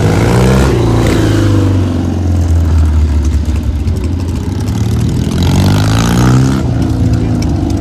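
Classic motorcycle engine running and being revved over a steady low engine drone: the pitch falls in the first second, then climbs again in rising revs around six seconds in.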